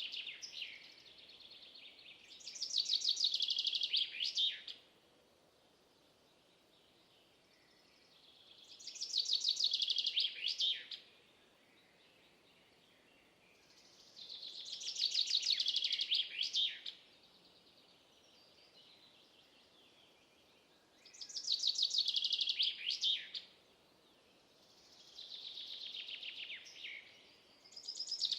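A songbird singing the same phrase over and over: a quick run of high, rapid notes lasting two to three seconds, repeated about every five to six seconds, with faint steady background hiss between phrases.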